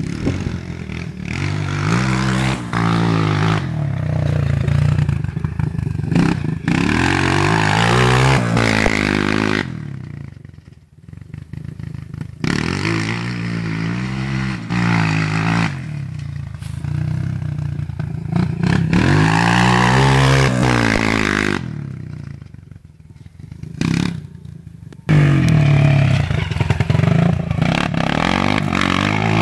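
Motocross bike engine revving up and down through corners, its pitch climbing as it accelerates and dropping as it slows, over and over. It fades away twice, around ten seconds in and again a little past twenty, then comes back loud near the end.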